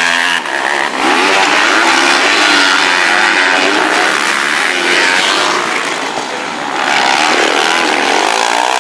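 Several motocross bike engines revving hard at once, their pitches rising and falling and overlapping as the riders accelerate and shift.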